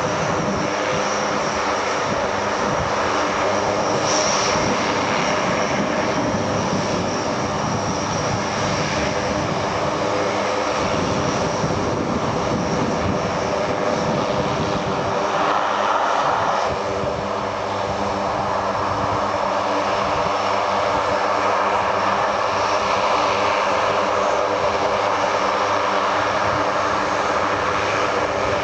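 Fixed-wing military aircraft engines droning steadily overhead, a continuous hum with several steady tones.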